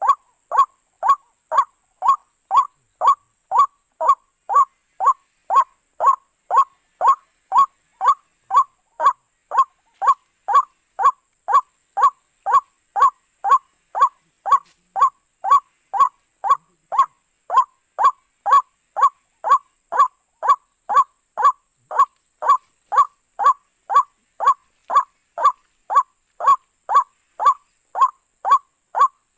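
White-breasted waterhen calling over and over, an evenly spaced 'kruak' note about two times a second.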